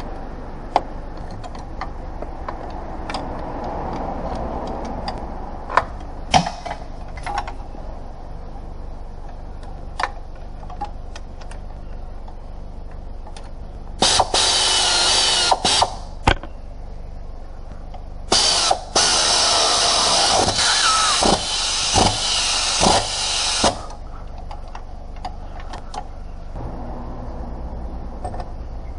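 A power tool runs in two loud bursts, one about two seconds long and one about five seconds long, amid scattered clinks and knocks of metal tools and parts.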